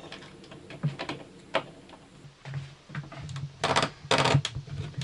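Clicks, knocks and clatter of small parts being handled, with two short rattling bursts about three and a half and four seconds in.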